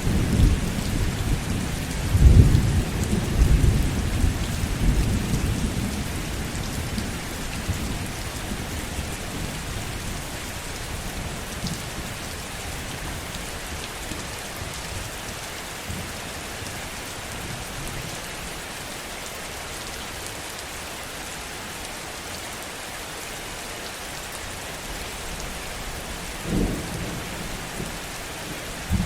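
Heavy, steady rain with thunder: a low rumble peaks about two seconds in and dies away over the next few seconds, and a short, fainter rumble comes near the end.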